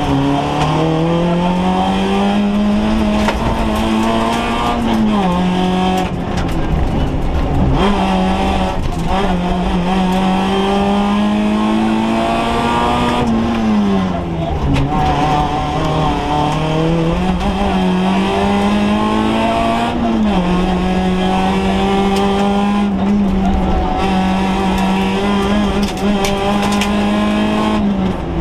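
Rally car engine heard from inside the cabin, driven hard on a stage: the note climbs steadily as it pulls through each gear and drops sharply at each shift or lift for a bend, several times over.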